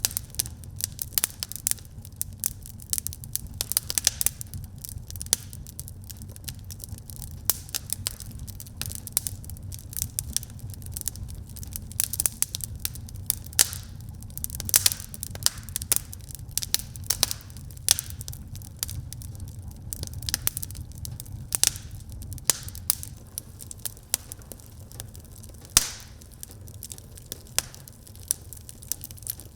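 Wood fire burning in a fireplace: a steady low rumble of the flames with frequent, irregular crackles and sharp pops.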